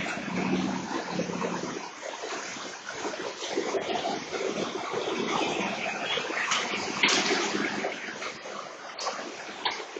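Steady rush of heavy rain and floodwater, with vehicles splashing through the flooded road.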